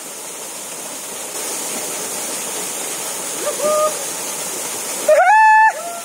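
Small waterfall pouring steadily into a pool, a little louder after the first second. A short high call sounds about three and a half seconds in, and a louder held call rises over the water about five seconds in and lasts about half a second.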